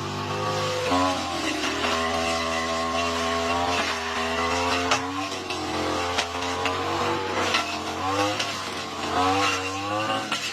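Lawn mower engine running under load, its pitch sagging and picking up again several times as it cuts through thick grass, with scattered sharp ticks and clicks.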